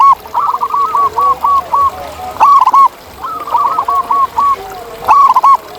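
Wild zebra dove cooing: each phrase is a loud opening note followed by a quick run of about six shorter coos, repeated about every two and a half seconds. Other doves coo more faintly in the background.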